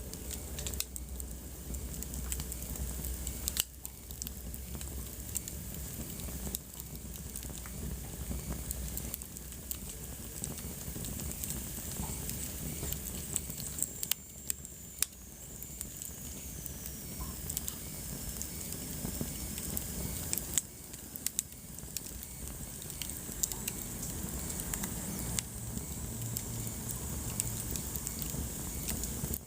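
Wood fire crackling in a fireplace: sharp, irregular pops and snaps over a steady low rumble and hiss. About halfway through, a faint high whistle slides down in pitch.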